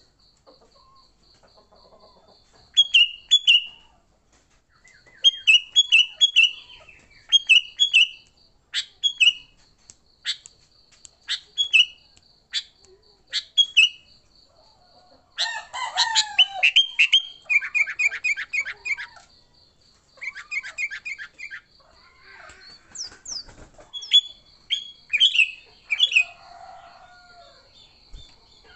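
Sooty-headed bulbul (kutilang) giving agitated, fighting-mood calls: short sharp notes in quick clusters, with a dense burst of rapid chatter about halfway through. A faint steady high-pitched tone runs underneath.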